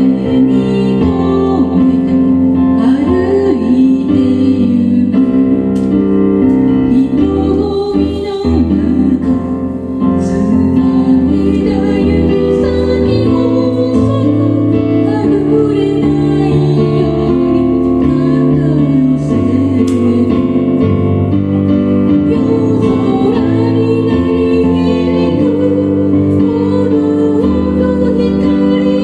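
A song performed live by a band: singing over keyboard chords and a bass line.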